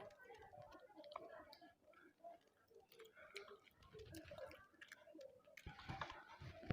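Faint close-up chewing and small wet mouth clicks of a person eating rice and curry, irregular throughout.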